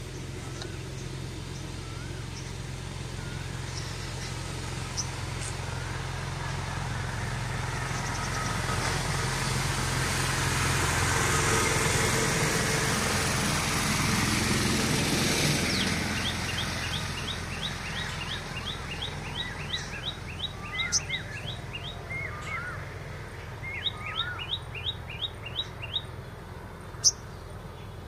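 Small birds calling: rapid runs of short, high chirps, several a second, with lower rising call notes between them, over a steady background rumble that swells and then fades in the first half.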